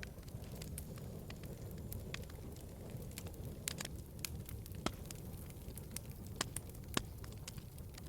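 Wood fire crackling in a fireplace: a steady low rumble of burning with irregular sharp pops, the loudest about five and seven seconds in.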